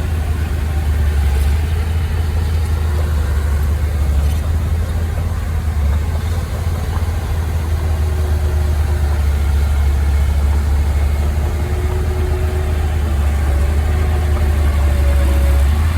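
Engine of heavy earthmoving machinery, a bulldozer or truck, running steadily with a deep low drone.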